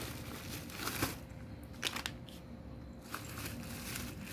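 Cats eating wet cat food: faint chewing and smacking with a few short, soft clicks.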